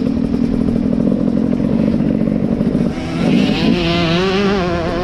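Beta 300RX two-stroke motocross bike engine running hard. About three seconds in the note dips briefly, then comes back up and wavers up and down in pitch as the throttle is worked.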